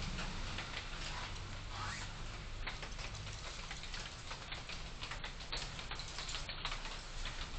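Car driving in city traffic as picked up by a dashcam: steady road and engine rumble with a light patter of faint ticks throughout.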